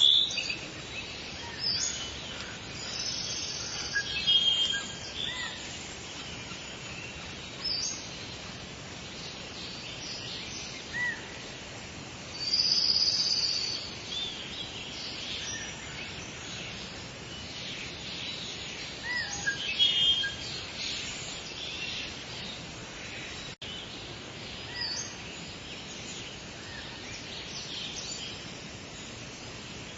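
Several songbirds chirping and singing in short, high phrases over a steady outdoor background hiss, with the loudest song bursts a little before halfway and again about two-thirds of the way through.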